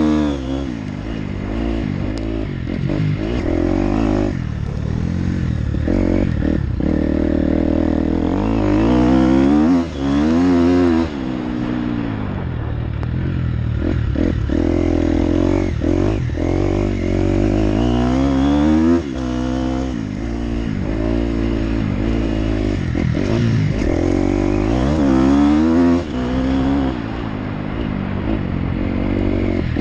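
Motocross bike engine being ridden hard, its pitch climbing under throttle and dropping back again and again as it works through the gears. The throttle is chopped abruptly a few times, about four, ten, nineteen and twenty-six seconds in.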